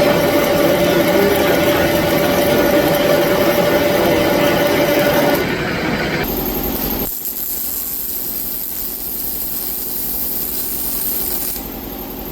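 Power tool cutting through a steel tube with a steady whine. It stops suddenly about five seconds in, and a quieter, steady shop noise follows.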